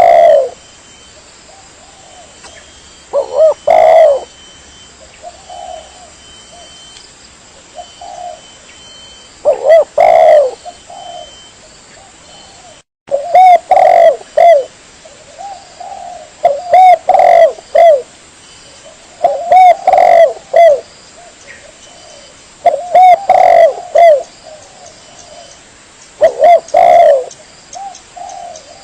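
Spotted dove (tekukur) cooing: loud multi-note coo phrases repeating about every three seconds, with fainter coos in between, from a recorded lure call used to attract the birds. The sound drops out briefly about halfway through.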